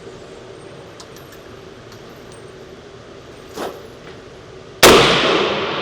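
A single .300 Blackout rifle shot near the end: a sharp, very loud report that echoes and dies away over the next couple of seconds. A faint knock comes a second or so before it.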